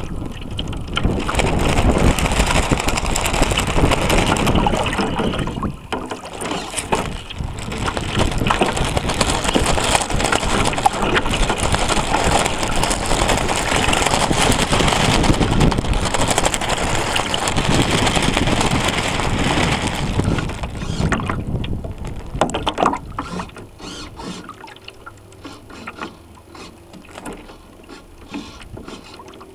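Water rushing and splashing along the hull of a radio-controlled sailboat, heard close up from a camera mounted on board, with wind on the microphone. After about 20 seconds it drops to quieter lapping with scattered light knocks.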